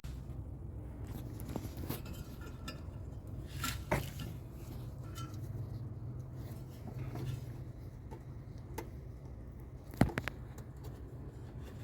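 Scattered light clicks and rattles of hand work on a washing machine's motor wiring, over a steady low hum, with one sharp click about ten seconds in.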